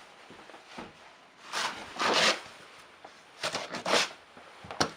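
Snow crunching and scraping in a few short, rough bursts, with a sharp click near the end.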